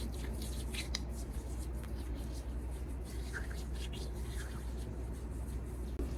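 Faint rubbing and light handling sounds, like hands working skincare product onto the face, over a steady low hum. Two brief faint high chirps come about three and a half and four and a half seconds in.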